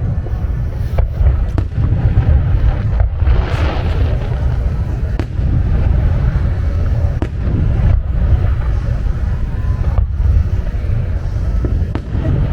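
Fireworks display: shells bursting in quick succession over a continuous low rumble of booms, with a crackling, hissing shower about three to four seconds in.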